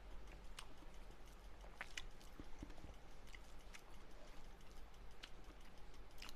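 A man chewing a mouthful of rice and gundruk (fermented leafy greens), picked up close by a clip-on mic, with scattered sharp clicks.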